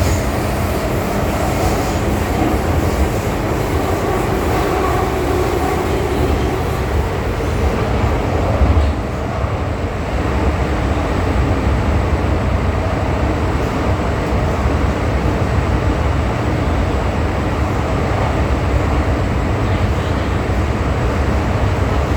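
MTR M-Train metro train running at speed between stations, a steady low rumble of wheels and running gear with faint steady tones early on. There is a brief louder moment about eight seconds in.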